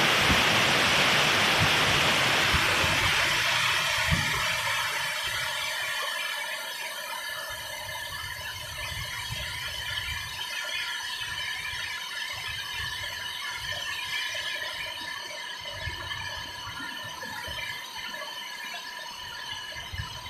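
Storm rain and wind noise that eases off over the first five seconds or so, giving way to a steady high squeal made of several held tones, with gusts rumbling on the microphone underneath.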